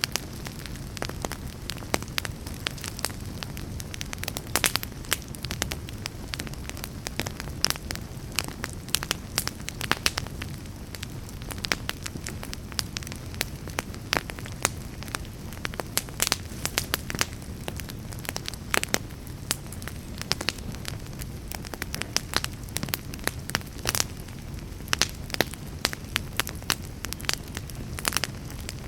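Fireplace fire crackling, with frequent irregular sharp pops over a low, steady rumble of the flames.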